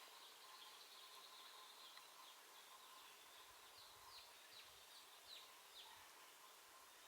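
Near-silent outdoor ambience with a bird's faint high chirps, a run of quick falling notes in the middle.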